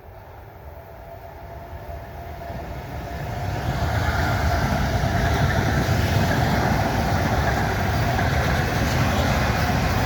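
Passenger train approaching and running past at speed. The rumble of wheels on rail grows over the first four seconds, then holds loud and steady.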